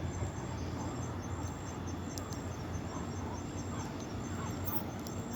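Insects chirping in a steady, evenly pulsed high trill at dusk, over a low steady background rumble, with a couple of faint sharp clicks.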